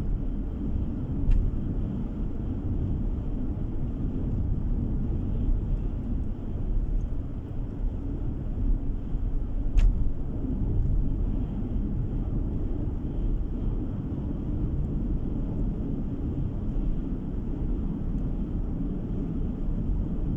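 Car driving at road speed: a steady low rumble of tyre and engine noise heard from inside the cabin. Two brief clicks come through, one about a second in and one about halfway.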